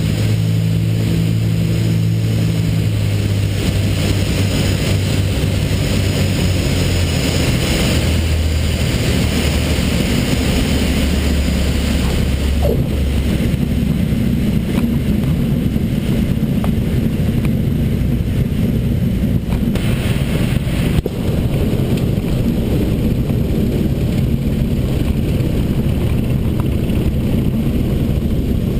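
Cessna 310R's twin piston engines and propellers running with a steady drone under a rush of air noise. The engine tone shifts a few seconds in and again about 13 seconds in, and there is a brief click about 21 seconds in.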